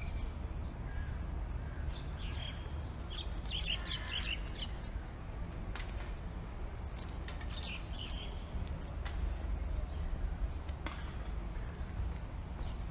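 Small birds chirping and tweeting in short bursts, busiest a few seconds in and again past the middle, over a steady low rumble.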